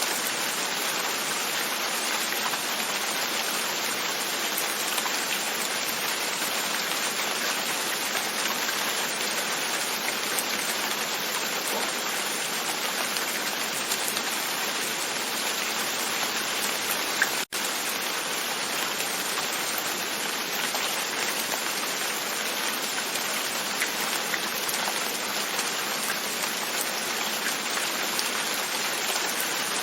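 Steady rain pattering on a window pane, an even hiss that holds level throughout, broken only by a momentary cut-out a little past halfway.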